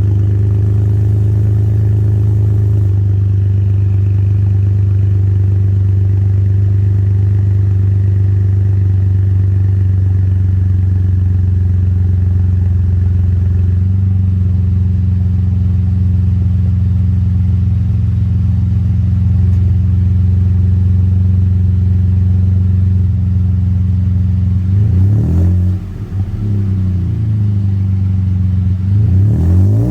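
Ford 2.7L EcoBoost twin-turbo V6 idling warm through a Flowmaster FlowFx muffler with the resonator deleted, giving a deep exhaust tone. The idle settles slightly about three seconds in, and the engine is revved briefly twice near the end.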